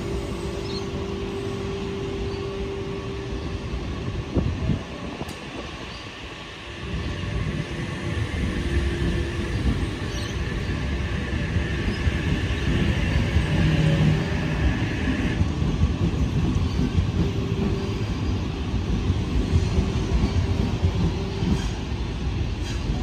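A train running past: a low rumble that swells about seven seconds in, with a steady high tone over it that cuts off suddenly partway through.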